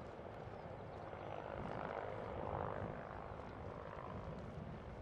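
Military helicopter in flight, a steady rotor and turbine rumble that swells briefly about halfway through as it passes.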